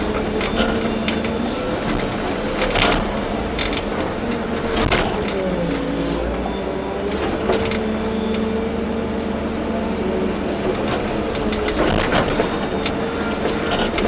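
Volvo EC240B excavator's diesel engine and hydraulics running under varying load, with a whine that rises and falls and scattered knocks and clunks as the machine digs and swings.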